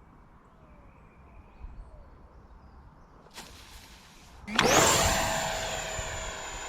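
Quiet outdoor background, then about four and a half seconds in the high, steady whine and rush of a model jet's 64 mm electric ducted fan at power comes in loud.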